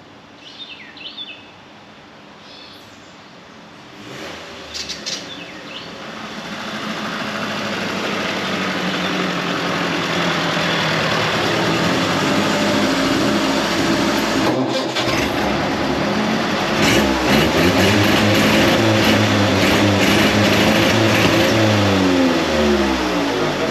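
Small carburetted petrol engine with points ignition picks up about four seconds in, gets louder and is revved up and down, with the revs dropping near the end. It runs with the ignition timing still not set right, but with its vacuum leak fixed.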